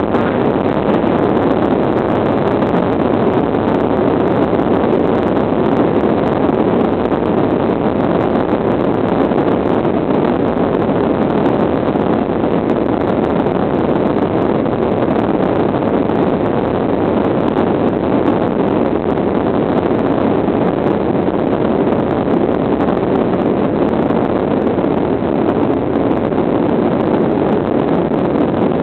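Airliner taking off, heard from inside the passenger cabin: a loud, steady rush of engine and air noise that holds even throughout.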